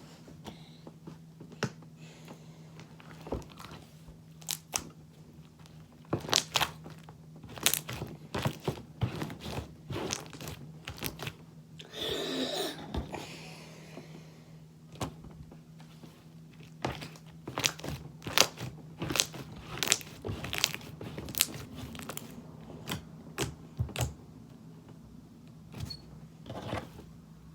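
Soft lotion-softened slime being squished and stretched by hand, with many irregular sharp clicks and pops as trapped air bubbles burst, and a longer squelch about twelve seconds in.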